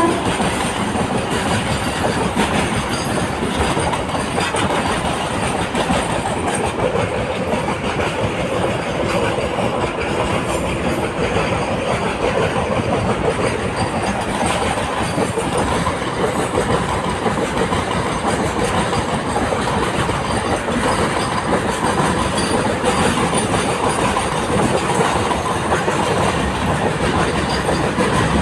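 Train running along the track: a loud, steady noise of wheels and carriages on the rails that goes on without a break.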